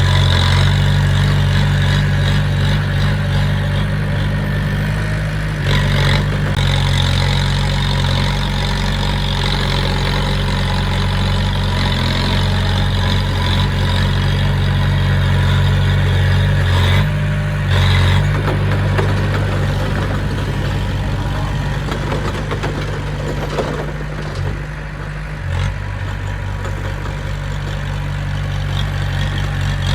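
Heavy earthmoving machine's diesel engine running steadily, with two brief rises in the engine note and a short drop about three-quarters of the way through.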